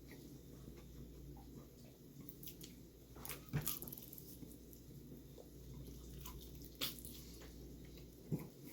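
Close-up eating sounds of a person working through sauced chicken legs: quiet wet chewing and smacking, with three sharp clicks, the loudest about three and a half seconds in.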